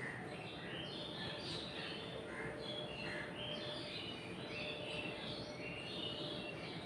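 Birds chirping, many short overlapping calls, over a steady hum.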